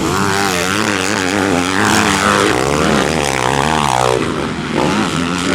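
Dirt bike engines running, rising and falling in pitch as the throttle is worked on and off.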